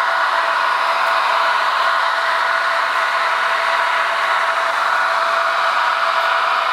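A TT-scale VL80 electric locomotive model's digital sound decoder playing the locomotive's running sound through its small speaker as the model runs on the track: a steady hum and hiss with a few thin tones in it.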